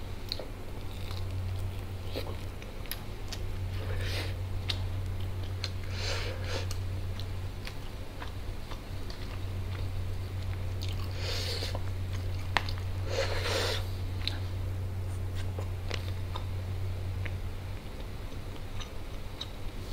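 Close-miked chewing and biting as a person eats fried chicken and biryani rice by hand, with short wet mouth noises and soft clicks, over a steady low hum.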